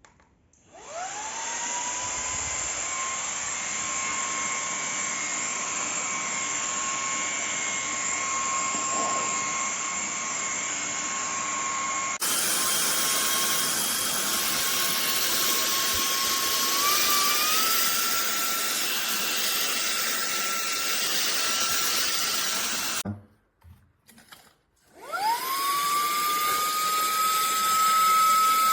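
Cordless handheld vacuum cleaner's motor spinning up to a steady high whine with airflow hiss. The pitch steps up slightly partway through. The motor is then switched off and starts again, its whine rising back up.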